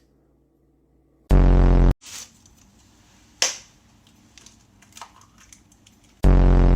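Two identical short, loud, low buzzing blasts, each about half a second long and about five seconds apart, with a sharp click between them.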